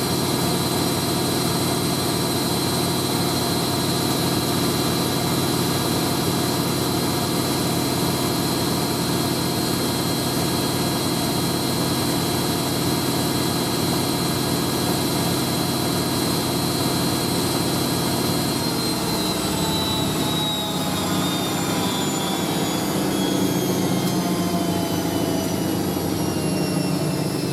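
Hoover A3060 Electronic 1100 washing machine on its final 1100 RPM spin, a steady high whine from the motor and drum. About two-thirds of the way through the spin starts to wind down, and the whine falls steadily in pitch.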